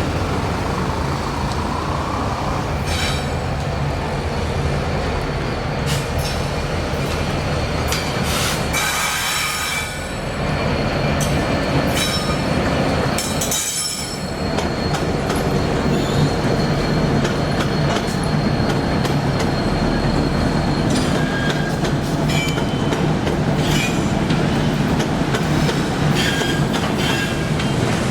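A general freight train led by an SD70 diesel locomotive rolls past with a steady rumble of wheels on rail and scattered clacks. A thin, high wheel squeal sets in about halfway through and holds.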